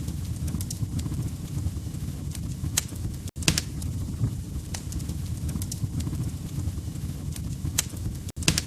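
Log fire crackling: a steady low rumble of flames with sharp pops and snaps at irregular intervals. The sound cuts out for an instant about three seconds in and again near the end.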